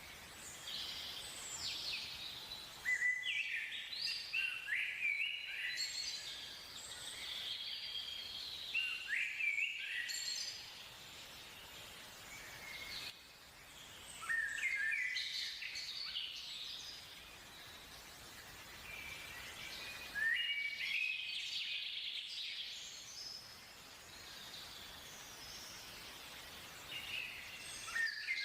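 Birds singing: phrases of quick, high chirping notes that come every few seconds, over a steady faint background hiss.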